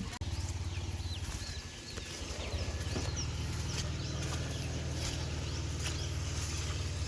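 Outdoor rural ambience: a steady low rumble with faint, short, scattered bird chirps above it.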